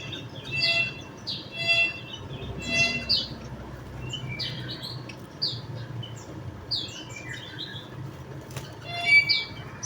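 Javan munias calling: short chirps repeated over the first few seconds, then a quicker patter of thinner chirps from about four seconds in, and a louder chirp near the end.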